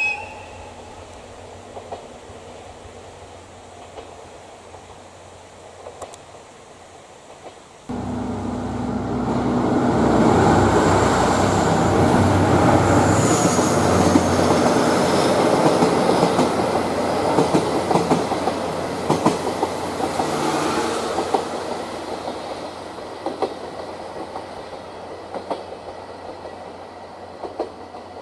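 Diesel-hauled passenger train (DE10 diesel locomotive with three coaches) going by: a loud run of engine and wheel noise starts abruptly about 8 s in, with wheels clicking over rail joints, and fades away over the last several seconds.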